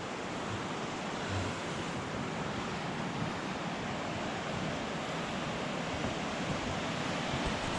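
Steady rushing of a rain-swollen creek running high with floodwater.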